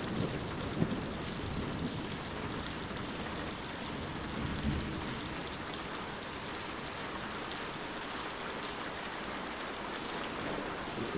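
Steady rain falling, with a low rumble of thunder that swells about four to five seconds in.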